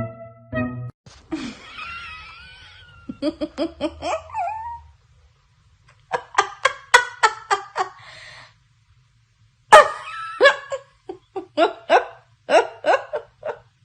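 People laughing hard in three bouts of rapid ha-ha-ha pulses, after a brief high wavering sound near the start.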